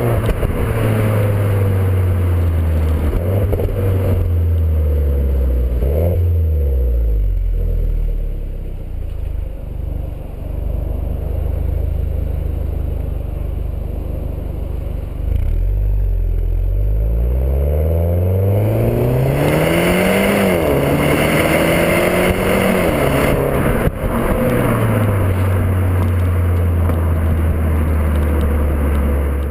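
Alfa Romeo MiTo 135 TCT's turbocharged four-cylinder through its stock exhaust. The revs fall at first, run lower and steady for a while, then climb again, with quick drops in pitch twice as the twin-clutch gearbox changes up, before settling to a steady run.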